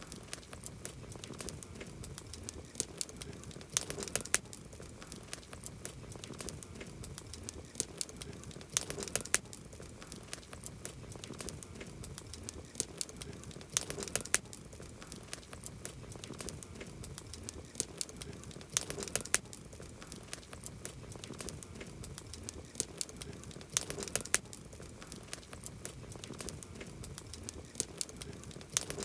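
Wood campfire burning, with a low hiss under frequent sharp crackles and pops. Thicker bursts of crackling come about every five seconds.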